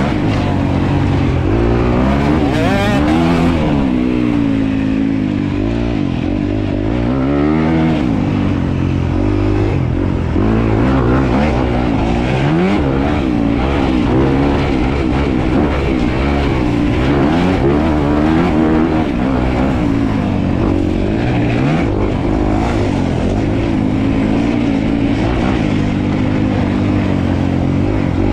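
Dirt bike engine being ridden, revving up and down over and over as the rider works the throttle and shifts.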